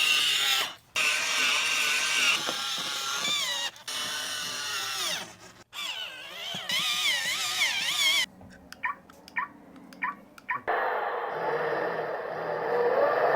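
Toy battery drill from a kids' engine repair set whirring in repeated spurts, its pitch wavering up and down. Near the end it gives way to a steadier hiss with one rising and falling tone.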